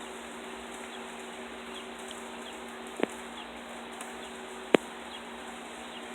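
Steady patter of rain, with two sharp taps about three seconds in and again near five seconds.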